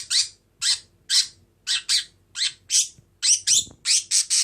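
Budgerigar giving a rapid series of short, high, scratchy chirps, about a dozen of them, coming faster near the end: the excited chatter of a hyper budgie.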